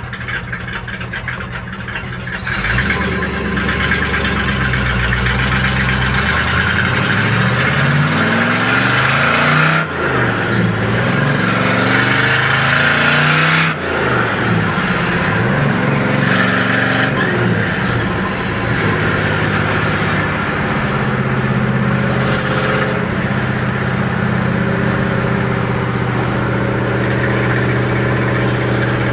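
1969 Oldsmobile F85's engine running. It picks up a couple of seconds in, revs rise and fall twice with brief dips in between, then it settles to a steady run.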